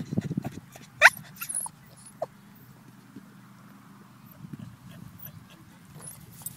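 Boston terrier whining: a loud, short rising yelp about a second in, and a shorter squeak about two seconds later, with fainter low sounds around them.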